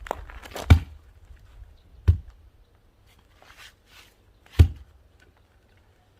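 Split firewood being handled, with three sharp wooden knocks and a few lighter clacks between them.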